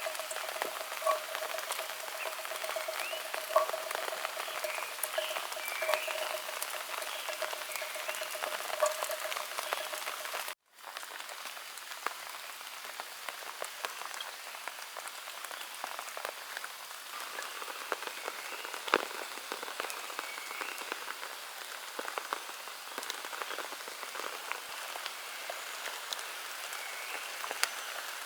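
Steady rain, a dense hiss with many individual drops ticking. For the first ten seconds or so a steady pulsing call sounds under it. The sound cuts out for an instant about ten seconds in, then the rain carries on.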